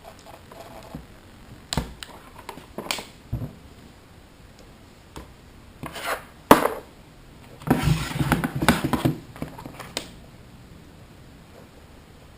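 A few sharp knocks and clicks, then a couple of seconds of scraping and rubbing, with quiet stretches in between.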